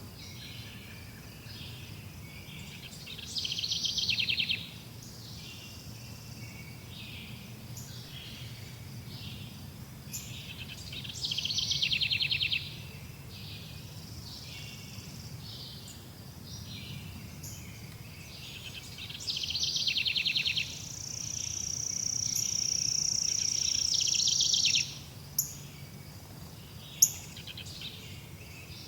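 Songbird singing, a loud phrase of rapid repeated notes about every eight seconds, with softer bird calls between. About two thirds of the way in, a long high steady buzzing note holds for about four seconds. A low steady outdoor rumble runs underneath.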